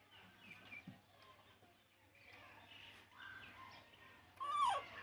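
Small birds chirping faintly in the background, with one loud, short call near the end that falls in pitch.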